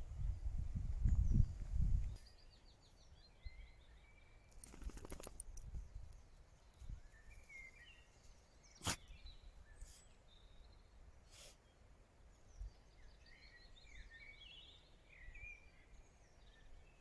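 Songbirds singing in woodland, including a descending trilled song heard twice, with a few sharp clicks. A low rumble covers the first two seconds.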